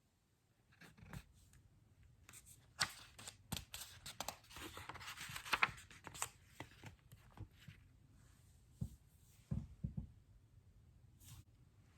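Faint handling of a picture book: paper rustling and scattered clicks as pages are turned, busiest in the first half, with a few soft thumps near the end.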